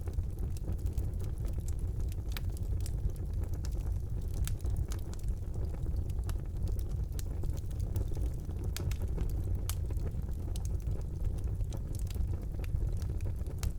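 Fire burning in a fireplace: a steady low rumble of flame with irregular sharp crackles and pops from the burning wood.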